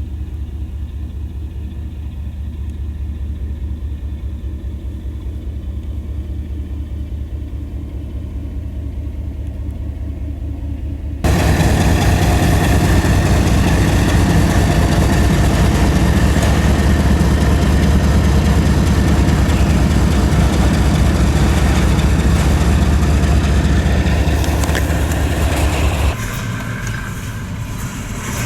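Diesel locomotive engine running with a steady low rumble. It turns abruptly much louder and fuller about eleven seconds in, then drops back to the quieter rumble near the end.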